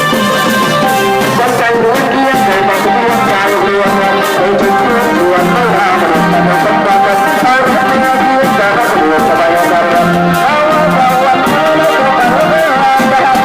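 Thai trae wong brass band playing, with horns carrying a moving melody over a steady beat of drums and cymbals.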